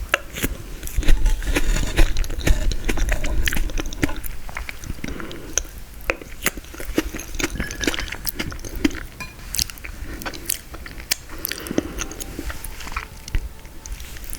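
Close-miked mouth chewing and biting frozen tiramisu, with many sharp clicks and smacks. It is loudest in the first few seconds.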